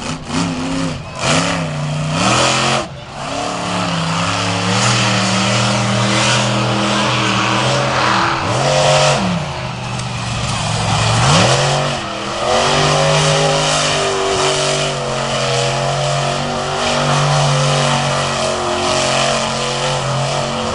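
Monster truck engine running hard at high revs, the revs dipping sharply and climbing back several times, once near the start and again around the middle.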